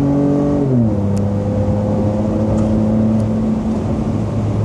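Twin-turbo 3.5-litre EcoBoost V6 of a Ford F-150 pulling under heavier throttle through a dual 3-inch catback exhaust with round smooth-tube mufflers. The engine note drops sharply in pitch about a second in, then holds steady.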